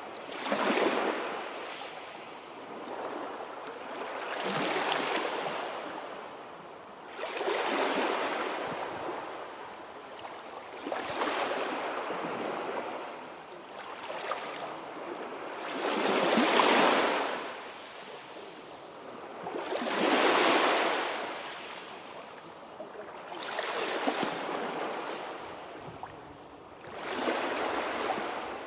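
Sea waves breaking on the shore, each one a surge of rushing noise that swells and falls away, about one every three to four seconds.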